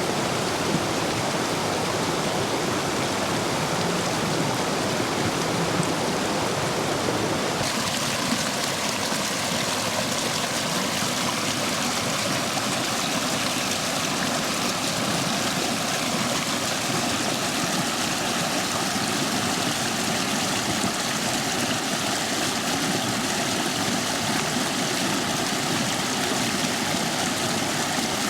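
Stream water rushing steadily over and between stone stepping stones, a full flow swollen by recent heavy rain. About eight seconds in the rush turns brighter and hissier.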